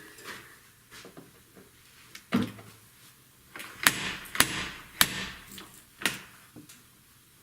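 Five sharp, irregularly spaced knocks of a tool on metal, some with a short metallic ring, the loudest cluster in the middle.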